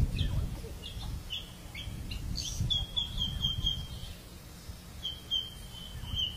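Bird calling: short high chirps, then runs of quick repeated notes a few seconds in and again near the end, over a low rumble.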